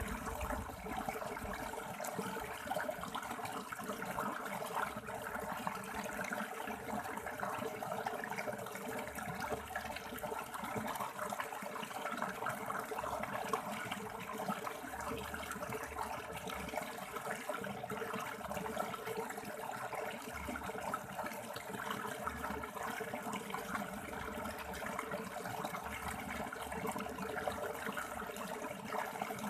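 River water flowing steadily over stones, an even, unbroken rush.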